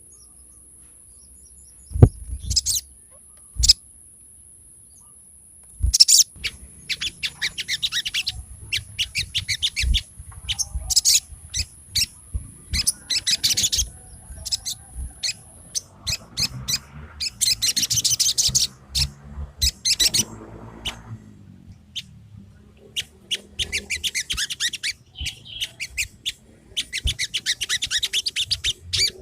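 A few sharp clicks in the first six seconds, the loudest about two seconds in. Then a sogon songbird sings in repeated bursts of rapid, high chattering chirps and trills, as used to trigger a reluctant sogon into song.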